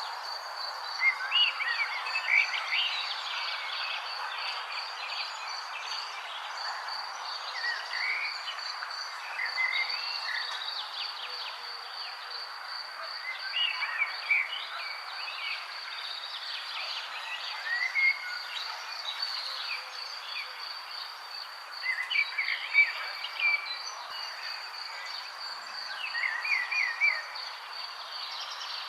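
Songbirds chirping in short scattered bursts over an unbroken, rapidly pulsing high trill from a calling insect such as a cricket, with a steady outdoor background rush beneath.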